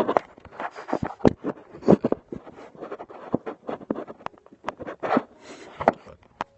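Irregular rustling and scraping with many small knocks close to the microphone: handling noise.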